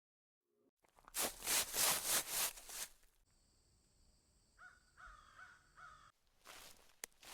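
Bird giving a rapid run of loud, harsh cawing calls for about two seconds, after a moment of silence. Then it is quieter: a steady high whine with three short pitched calls, and another harsh, noisy burst near the end.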